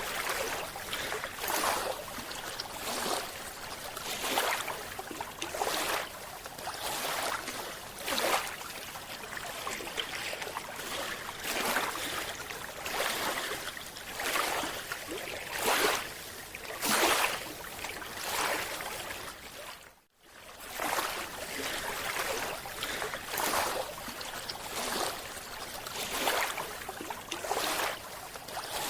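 Underwater hiss with a rushing surge of water and bubble noise about every second and a half, cutting out briefly about twenty seconds in.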